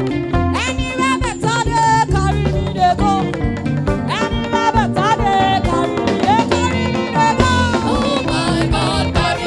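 Lively band music with a steady percussion beat and bending melody lines, as played for praise worship.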